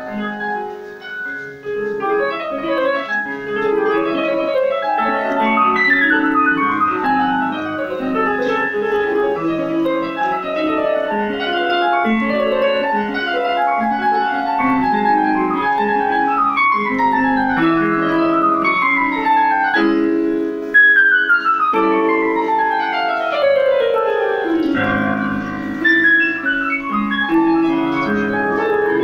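Piano playing, with several quick runs sweeping down from high notes to low ones; the longest sweep comes about three-quarters of the way through.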